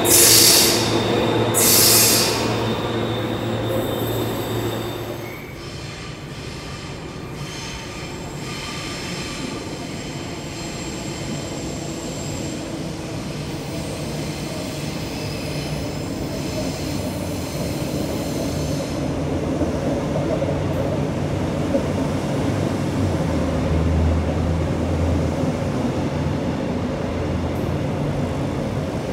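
Queensland Rail electric passenger train moving through a station platform. Its wheels squeal twice in the first couple of seconds, then it runs on with a steady rumble and faint whining tones that slowly grow louder.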